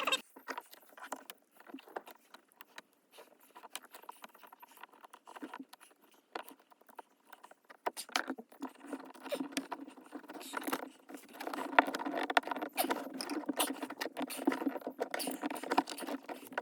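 Small metal parts and tools handled and set down: irregular light clicks, clinks and rattles, sparse at first and busier through the second half.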